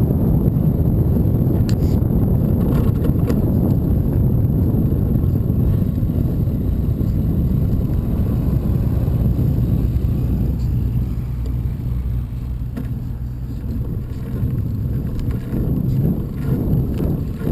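Steady low rumble of wind on the microphone and road noise while riding a bicycle, with a few faint clicks.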